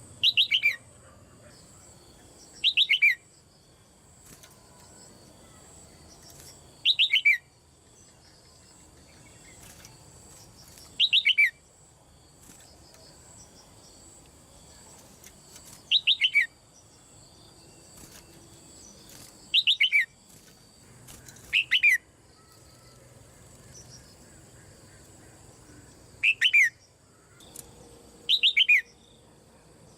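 Red-whiskered bulbul, a caged female, giving short loud calls, each a quick run of notes falling in pitch. There are about nine calls, spaced a few seconds apart.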